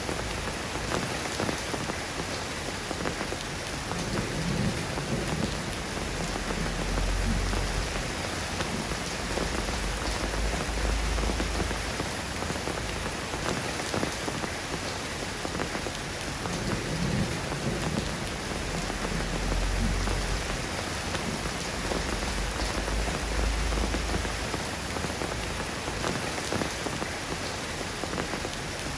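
Steady rain falling on a surface, an even hiss of drops with no let-up. A low rumble swells and fades several times underneath it.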